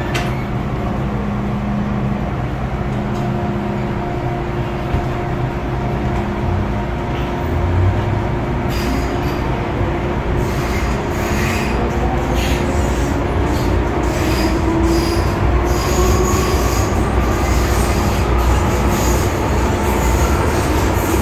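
MTR M-Train electric multiple unit running, with the steady hum of its traction equipment and the rumble and squeal of wheels on rail; in the second half a motor whine rises steadily in pitch and the noise grows louder as the train gathers speed.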